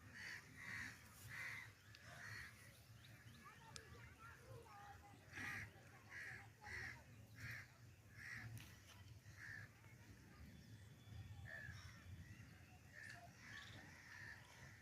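Crows cawing faintly in runs of short, evenly repeated calls, about one and a half a second, with a low steady rumble underneath.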